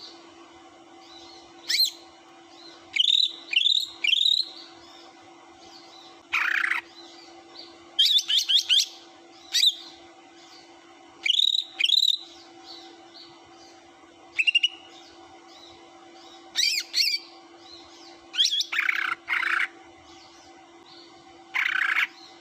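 Greater green leafbird (cucak hijau) song played as a lure to provoke rival birds: a dozen or so short phrases of quick rising whistles and rasping chatter, with pauses of one to three seconds between them. A faint steady hum runs underneath.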